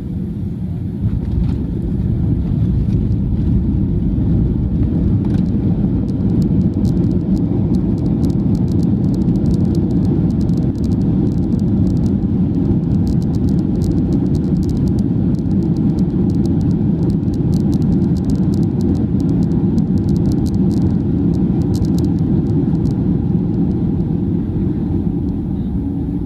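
Steady low rumble of a vehicle in motion, with a spell of rapid faint clicking or rattling through the middle.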